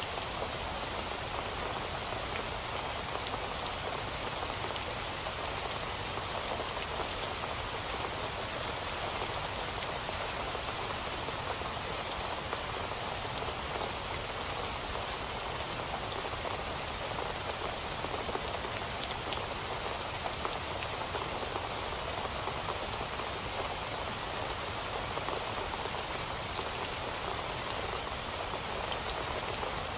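Steady rain falling and pattering on surfaces, an even hiss dotted with small drop ticks.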